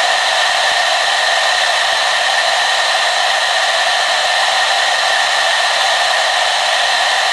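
Hair dryer running steadily: an even rush of blown air with a few steady tones held in it, unchanging throughout.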